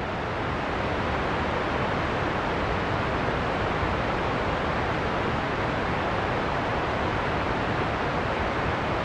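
Steady storm soundscape of heavy rain and wind: a dense, even hiss over a low rumble, with no distinct drops, gusts or thunder.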